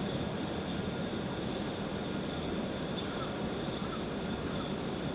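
E7 series Shinkansen train running slowly into the station: a steady rumble with a constant thin high whine over it.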